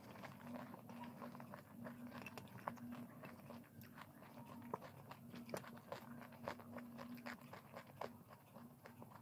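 Close-up chewing and biting of food, with many small irregular crunches and crackles.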